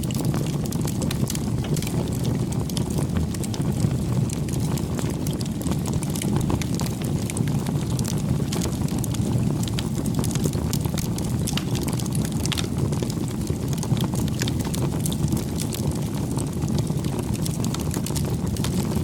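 Campfire burning: a steady low rush of flames with frequent small crackles and pops scattered throughout.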